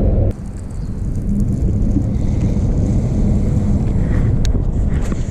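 Wind buffeting the microphone on an open bass boat: a steady low rumble that eases slightly a moment in, with a few faint clicks near the end.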